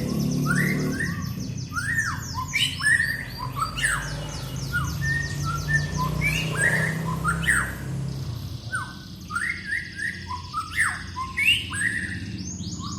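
A songbird singing a fast, varied series of chirps, up- and down-sweeping whistles and buzzy trills, repeated throughout, a lure song used to call in other birds.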